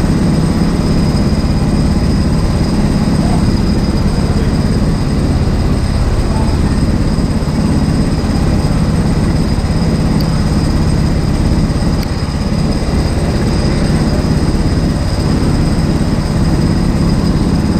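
Kart engine running steadily at racing speed.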